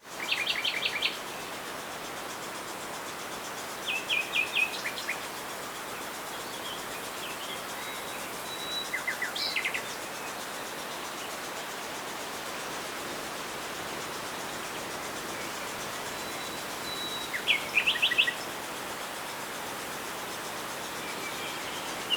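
Small birds chirping in four short clusters of quick high notes, over a steady background hiss.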